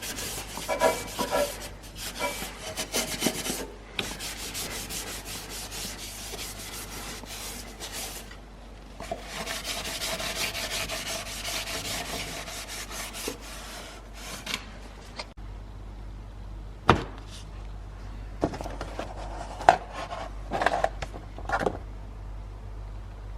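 Hand sanding of epoxy primer on a car's steel engine bay with 240-grit abrasive: quick, rough rubbing strokes. The sanding stops about two-thirds of the way through, and a few sharp knocks and clicks follow.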